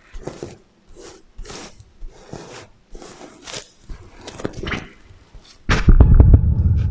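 Fingers brushing and flipping the sequins of a sequin pillow, short scratchy strokes about two a second, with an added echo effect. A loud low thump comes near the end.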